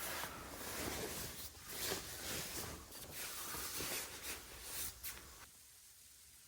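Bedding rustling and shifting in a series of scratchy swells, which stop abruptly about five and a half seconds in, leaving only a faint low background.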